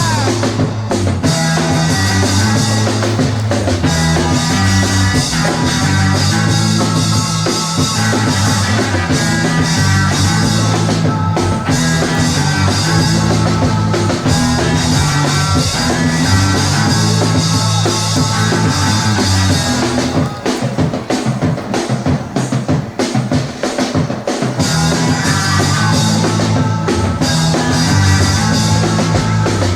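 Instrumental 1960s rock band music: guitar, bass and a drum kit playing a steady beat.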